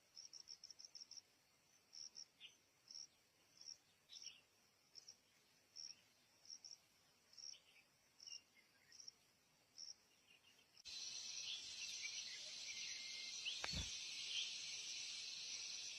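Faint, short, high-pitched chirps repeating about once or twice a second. About eleven seconds in, a steady high insect buzz like crickets or cicadas starts abruptly, and a single brief knock sounds near the end.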